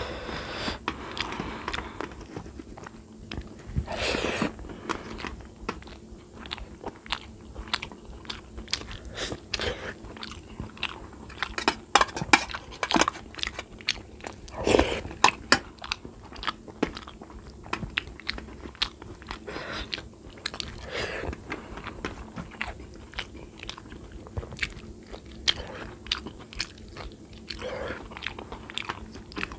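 Close-miked eating sounds from a person eating rice and curry by hand: chewing, biting and wet lip smacks in an irregular run of short clicks, loudest around the middle.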